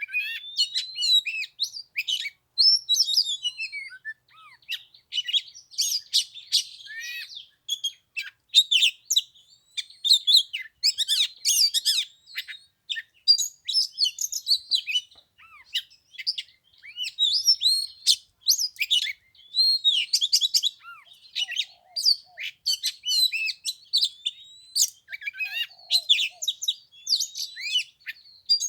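Oriental magpie-robin singing a long, varied song of clear whistles, slurred notes and quick chirps, phrase after phrase with short gaps.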